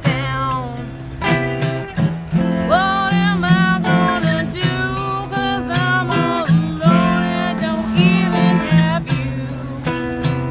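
Acoustic guitar strummed in a steady country-style accompaniment, with a gliding melody line over it.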